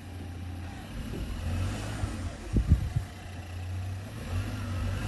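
A motor vehicle running with a steady low rumble, with a few sudden low thumps about halfway through.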